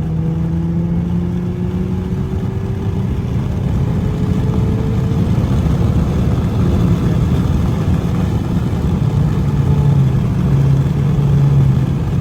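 Infiniti Q50's 3.0-litre twin-turbo V6 pulling under hard acceleration, its pitch climbing steadily over about the first five seconds, then running hard at speed with dense engine and road noise.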